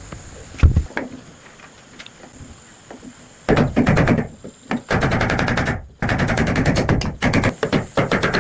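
A rapid run of sharp knocks, several a second, starting about three and a half seconds in and continuing with a couple of brief breaks. A single dull thump comes about half a second in.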